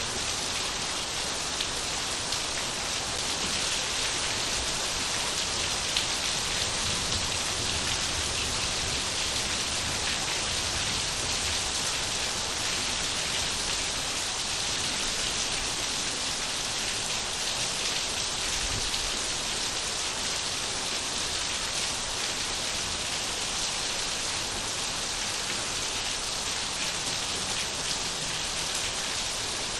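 Steady rain falling, a dense even hiss of drops with a few sharper drop ticks.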